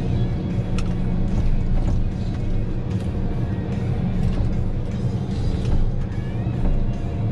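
Heavy forestry machine's engine running steadily, with scattered short creaks and clicks from its working parts.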